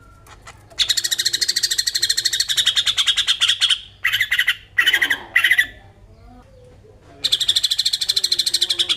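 Green leafbird (cucak ijo) giving its harsh, fast rattling 'besetan' call, the agitated, aggressive call of the species. A long rattle starts about a second in, three short harsh notes follow, and another rattle comes near the end.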